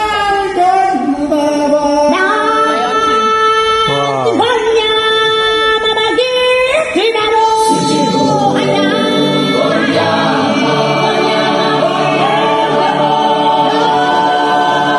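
Background vocal music: unaccompanied singing voices with long held notes and gliding pitches, filling out into a fuller blend of several voices from about eight seconds in.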